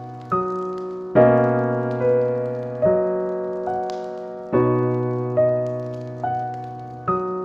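Slow, gentle piano music. A note or chord is struck a little under once a second and left to ring and fade, with a deeper chord on every second stroke or so.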